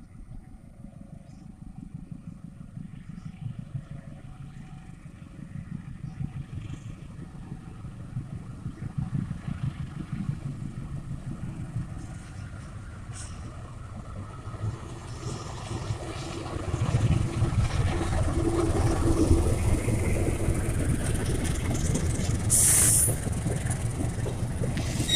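Diesel-electric locomotive approaching and passing with its train, its engine rumble and the noise of wheels on rail growing from faint to loud over the second half. A short hiss sounds near the end.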